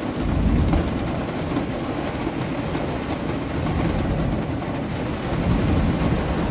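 Thunderstorm heard from inside a van: steady rain on the roof under a low rolling rumble of thunder that swells in the first second and again near the end.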